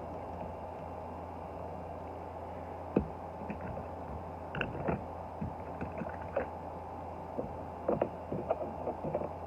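Small clicks and taps from diecast toy cars being handled and set into a display case: one sharp click about three seconds in, then clusters of lighter taps, over a steady low hum.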